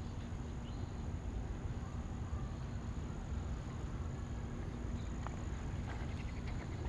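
Outdoor ambience in light rain: a constant high insect drone over a low steady rumble, with scattered soft ticks that come more often near the end.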